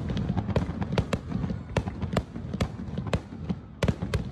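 Aerial fireworks going off: a rapid, irregular series of sharp bangs and crackles, several a second, over a low rumble.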